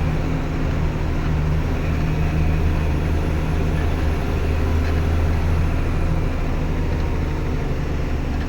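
Truck engine running steadily, a low even drone with no change in pitch.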